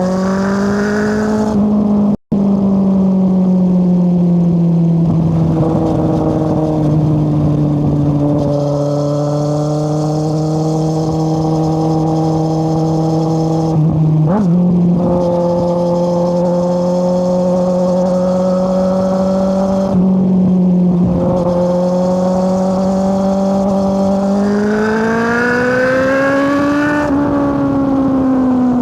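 Kawasaki Z800's inline-four engine through an Akrapovic exhaust with the dB killer removed, heard while riding: the engine note climbs at the start, holds fairly steady with a few brief dips, then rises hard near the end and falls away as the throttle closes. The sound cuts out for an instant about two seconds in.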